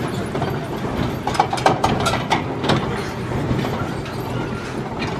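Heavy machinery engine running steadily with a low hum, overlaid by scattered metallic clicks and knocks, most of them in the first half, typical of a working crane.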